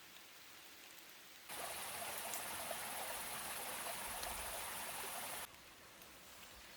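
Steady outdoor noise, a rushing water-like hiss with a high, even insect drone over it. It cuts in abruptly about a second and a half in and stops just as abruptly four seconds later, with fainter ambience on either side.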